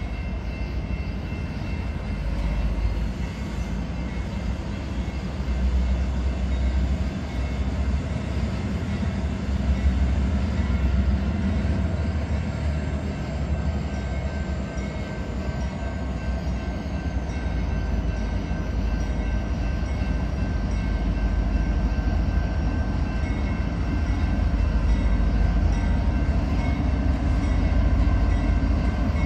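Train rolling through a grade crossing: a steady rumble of wheels on rail that grows a little louder towards the end.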